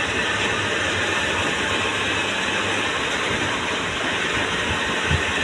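Metal lathe running under cut, turning a steel plate for a thresher, with a steady grinding noise of the machine and the cut. A brief low thump comes near the end.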